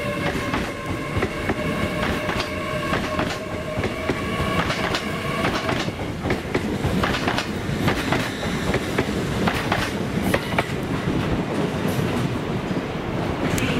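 Train moving along the platform: a steady rumble with a whine in the first few seconds, then a run of wheel clicks over the rail joints.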